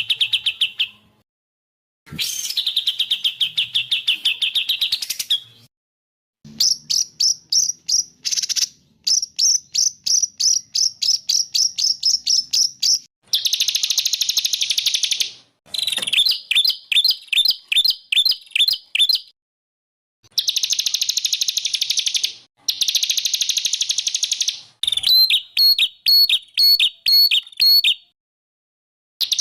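Songbird calls and song in a series of bouts of rapid, high-pitched trills and chirps, each bout one to three seconds long and different from the last, broken by short pauses. This is masteran, a compilation of songbird recordings for tutoring caged songbirds.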